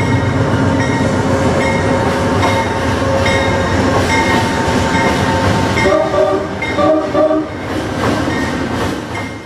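Passenger train crossing a steel truss bridge: a loud, steady rumble and clatter of wheels on the rails, with a few short horn blasts about six to seven seconds in. The sound fades out at the end.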